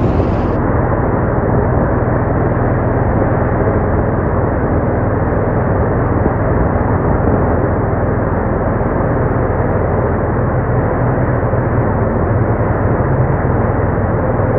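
Boat engine running steadily at a constant speed, a loud even drone with a low hum.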